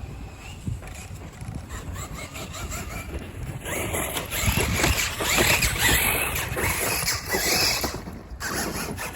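Losi LMT 1/8-scale RC monster truck's brushless electric motor whining, its pitch rising and falling with the throttle, along with tire noise on the dirt. It gets louder about four seconds in and drops off shortly before the end.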